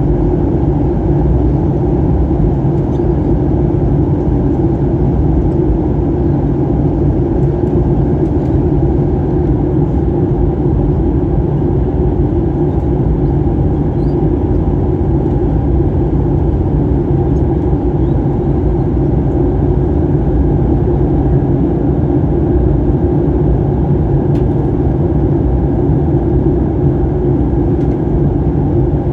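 Steady cabin drone inside a Boeing 737-800 airliner, the CFM56-7B jet engines and rushing airflow making a constant low, even roar with no changes.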